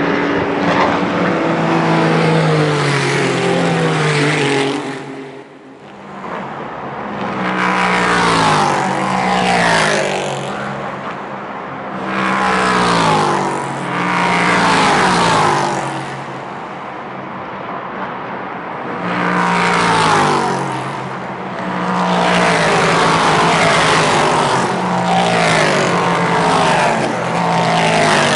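Several race cars passing one after another at speed, each engine note falling in pitch as the car goes by, with a short lull between the first pass and the next.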